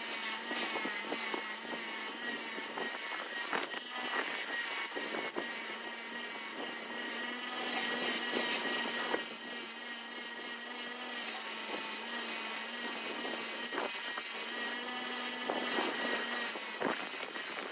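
A small motor running at a steady speed, with a few brief louder bursts of noise, about 4, 8, 11 and 14 seconds in.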